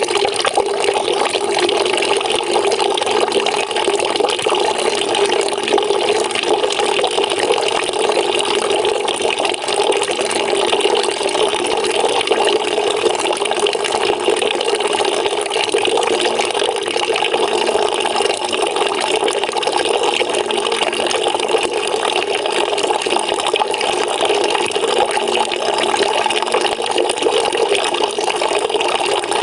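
Water pouring steadily into a bucket, an even, unchanging splashing stream.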